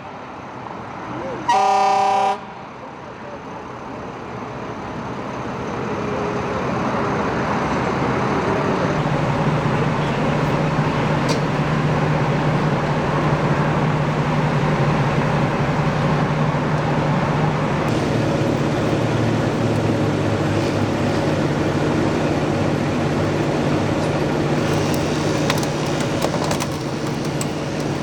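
A vehicle horn honks once, about a second long, about two seconds in. Then steady traffic and engine noise builds over several seconds and holds, with a low, even hum under it.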